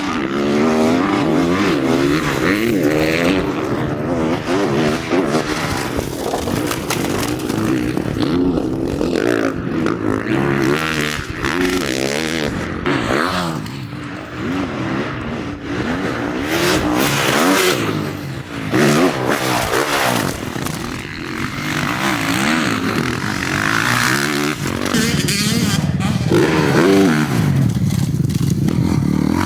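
Motocross bike engines being ridden hard on a dirt track, revving up and falling back again and again through throttle and gear changes, with brief drops in level about a third and a half of the way through.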